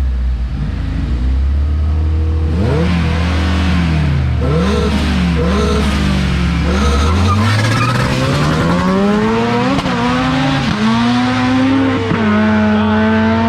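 Street-race car engines: an idling engine under repeated up-and-down revving, then an engine pulling hard from about seven seconds in, its pitch climbing in steps with quick dips between, and holding a high steady note near the end.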